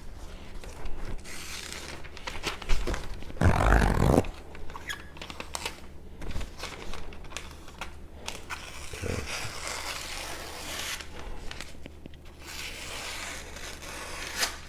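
Freshly sharpened AEB-L steel knife slicing through a paper towel, a dry papery hiss in long drawn strokes. This is a sharpness test; a cut that runs without catching shows an even edge. A louder low-pitched bump comes about three and a half seconds in.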